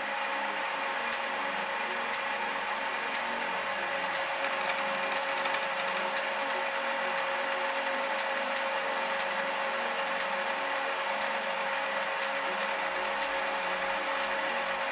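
Machine tool running steadily with a constant whine over hiss, with a few light clicks about four to five seconds in.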